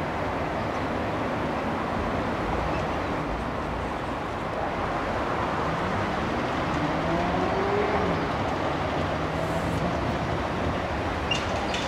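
A diesel-hauled passenger train, led by a GM G12 locomotive, rolling away over the track with a steady rumble. About halfway through, an engine note rises in pitch for a couple of seconds and then holds steady.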